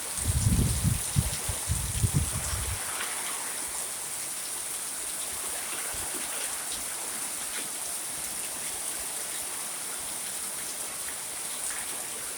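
Steady rain falling in a storm. Gusts of wind buffet the microphone with low rumbles in the first few seconds.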